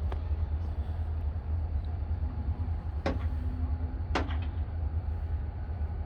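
Steady low rumble of EMD GP40-2 diesel locomotives working in a rail yard, with two sharp metallic clanks about a second apart in the middle.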